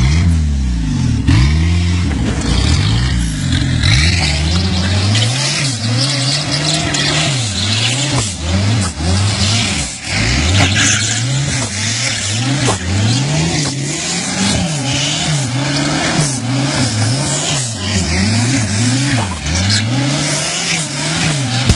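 Go-kart with a motorcycle engine being driven hard, the engine revving up and dropping back over and over, about once a second, with a rush of wind and tyre noise.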